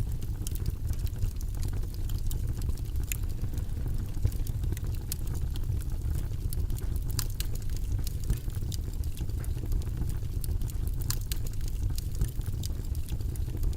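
Steady, low rumbling white-noise background track, with faint, irregular light clicks and taps scattered over it.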